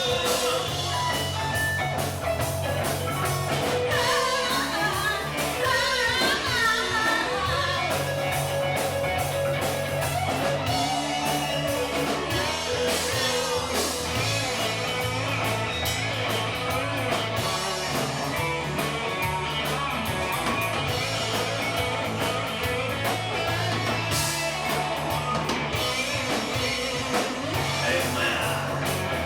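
Rock music from a band: electric guitar over bass and a drum kit, with a wavering guitar or vocal line standing out about four to seven seconds in.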